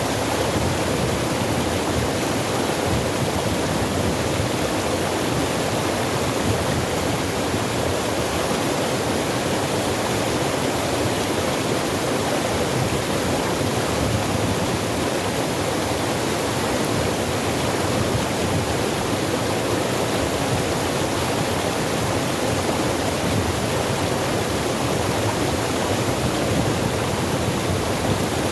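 Steady rush of a stream or small waterfall pouring over rocks, an even full-range wash of water noise with no break.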